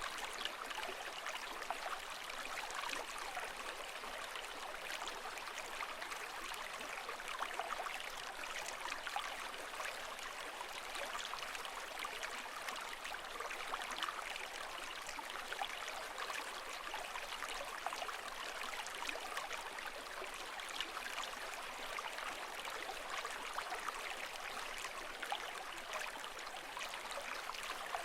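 Running water making a steady, even rush with fine crackly splashes, holding a constant level with no rise and fall of waves.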